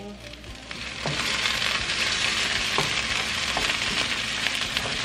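Onions and tomato paste frying in oil in a nonstick pan, a steady sizzle that grows louder about a second in, with a wooden spatula stirring and scraping through it. The oil is starting to separate out of the onions.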